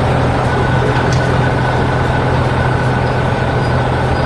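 Heavy construction machinery engine running steadily: a low, even drone with a thin steady whine above it.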